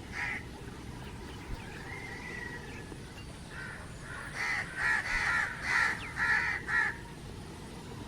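A bird calling outdoors: one call near the start, then about four seconds in a run of about six loud, harsh calls in quick succession.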